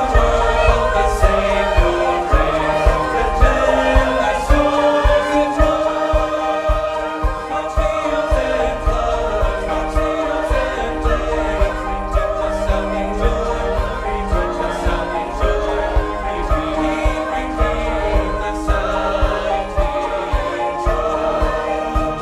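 Amateur church choir singing a Christian song over instrumental backing with a steady beat.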